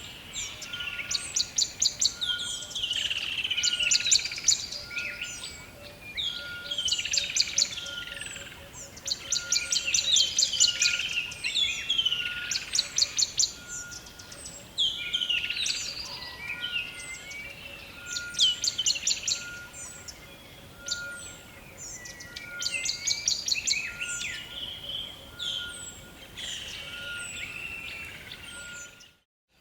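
Rainforest bird chorus: many birds calling at once with fast trills and swooping whistles, over a short, steady note repeating about once a second and a fainter pulsing drone. The sound cuts out completely for about half a second just before the end.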